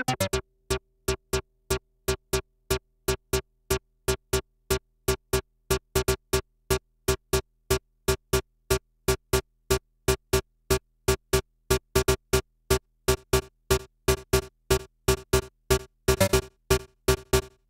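Malekko Manther analog monosynth playing a step sequence of short staccato notes, about three a second, mostly on one repeated pitch. Toward the end the pattern fills in with extra notes and becomes busier.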